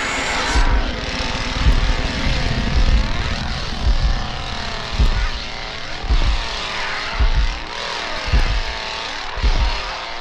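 Two-stroke chainsaw engine revving, its pitch rising and falling several times, with heavy low thuds.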